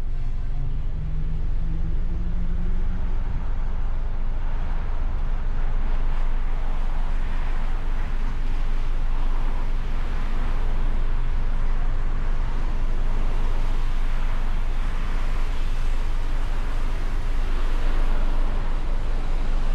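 Ford Mustang convertible driving: a steady low engine and road rumble with an even rush of tyre and wind noise. A low engine drone stands out in the first few seconds.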